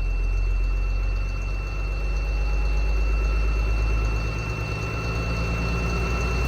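7.2-litre Caterpillar C7 ACERT diesel of a school bus running steadily at high idle, heard from inside the bus, with a steady high-pitched tone over the engine's low rumble.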